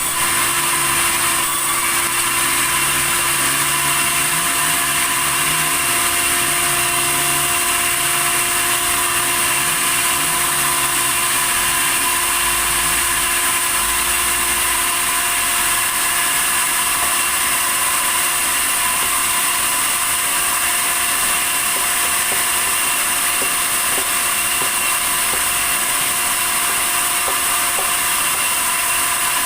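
Sawmill saw running steadily through timber, with a steady high whine. A low wavering hum runs under it for about the first twelve seconds, then fades.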